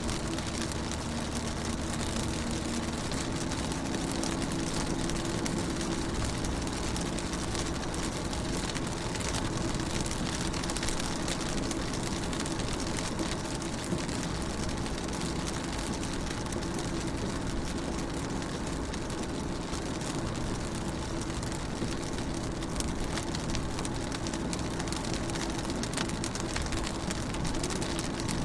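Steady rain falling on a car's windows and body, heard from inside the car: a dense wash of fine drop ticks over a constant hiss, with a steady low hum underneath.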